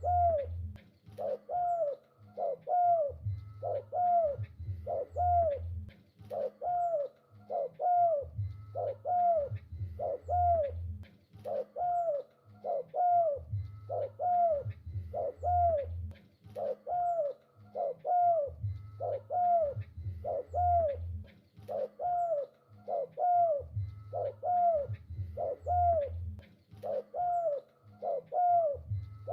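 Spotted dove (tekukur) cooing over and over, each coo an arched note that rises and falls, repeating about once a second in unbroken phrases.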